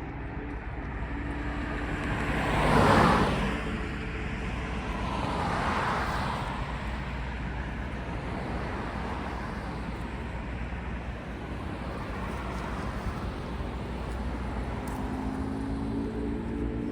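Road traffic going by: one vehicle passes loudly about three seconds in and another more softly about three seconds later, over a steady background rumble. Near the end a steady engine hum builds.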